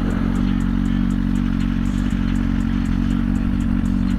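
Suzuki GSX-R1000's inline-four engine idling steadily at one pitch.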